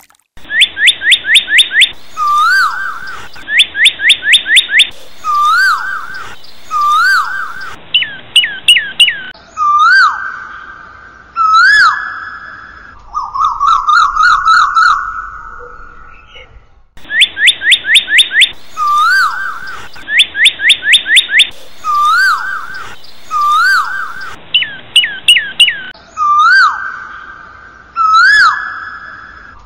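A songbird singing loud, clear whistled phrases: quick runs of falling notes alternating with rising-then-falling whistles, separated by short pauses. The same sequence of phrases starts over about halfway through.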